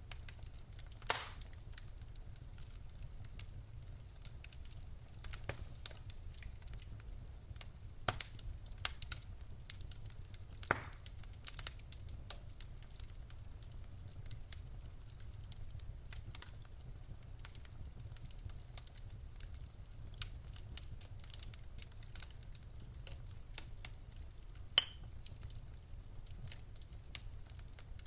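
Logs burning in a fireplace, crackling: a steady low rumble of the fire with scattered sharp snaps and pops, a few of them louder than the rest.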